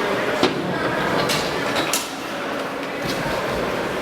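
Spectators in an indoor arena: a steady din of crowd chatter, broken by a few sharp knocks.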